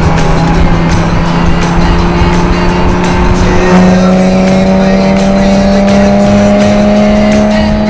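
Car engine running hard on a race track: it holds steady revs, jumps up in pitch about halfway through, then the revs climb slowly.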